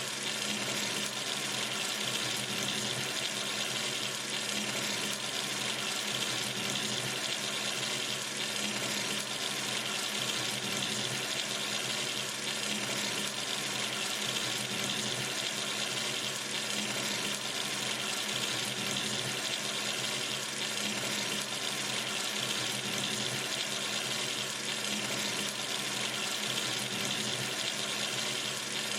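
Water running steadily from a sink tap, a constant even splashing hiss.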